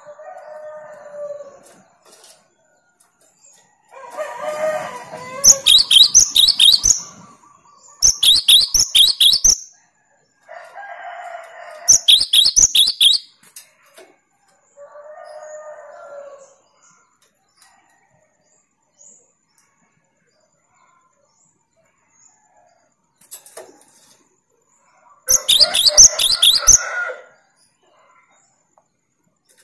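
Cinereous tit (gelatik batu) singing its rapid-fire song: four loud bursts of fast, shrill repeated notes, each about a second and a half long. Softer, lower calls come in between.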